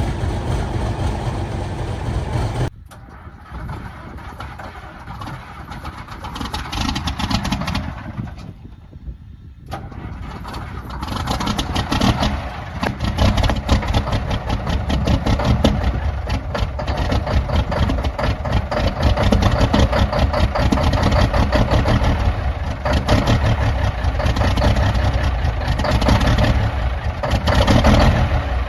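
Large diesel engines starting cold, heard in a run of separate clips. A loud running engine cuts off abruptly about three seconds in and a quieter one follows. After a short lull, another starts up about ten seconds in and builds to a loud, steady run.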